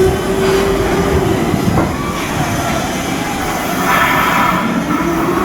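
Loud machinery noise in a shipyard, with a motor whine that rises, holds, falls away about two seconds in, and rises again near the end.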